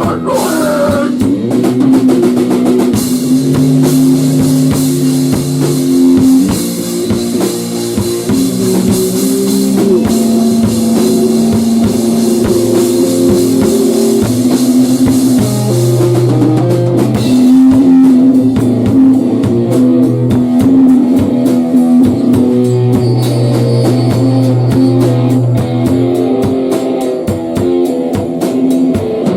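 Grunge/hardcore rock band playing, drum kit, guitar and bass, with the bass and guitar holding notes that change every second or two under steady drumming.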